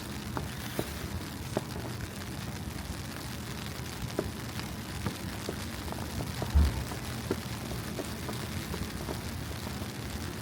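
Night city street ambience in falling snow: a steady low rumble with faint scattered clicks of footsteps on the snowy pavement, and one brief low thump about six and a half seconds in.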